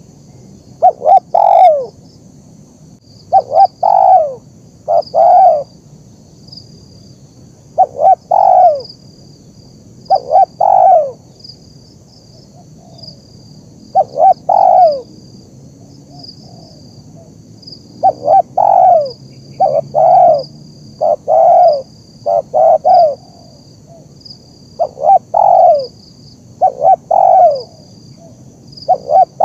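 Spotted dove (tekukur) cooing, repeating phrases of two or three loud coos with short pauses between them. A faint high chirping repeats about once a second in the background.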